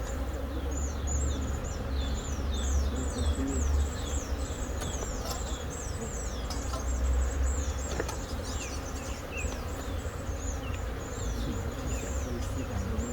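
A colony of honeybees buzzing steadily around their exposed comb in a tree trunk, a continuous insect hum. Quick, high falling chirps repeat over it throughout.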